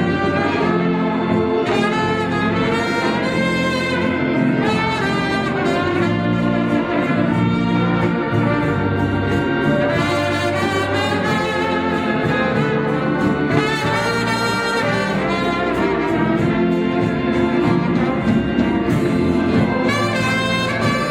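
Instrumental orchestral music led by brass, with sustained chords and melody lines.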